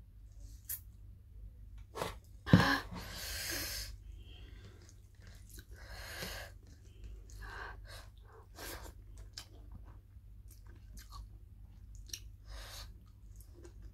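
Close-miked eating of rice and fried pork by hand: wet chewing and lip smacking in short, irregular bursts. A sharp knock about two and a half seconds in is the loudest sound, followed by a brief hiss.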